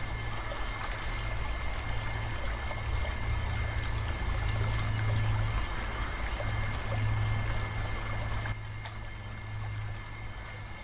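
Water pouring and trickling from a small electric water pump, over a steady low motor hum. The sound drops in level about eight and a half seconds in.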